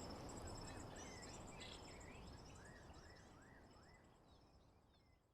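Birdsong and a steady high insect trill, with a quick run of short chirps in the middle, the whole ambience fading out to silence toward the end.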